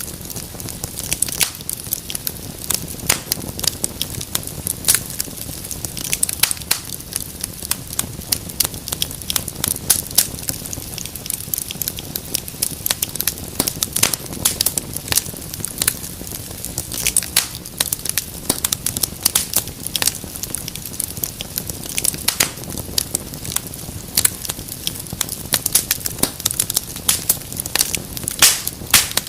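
Wood fire in a fireplace crackling steadily, with many sharp pops and snaps coming irregularly over a low, even rush of burning.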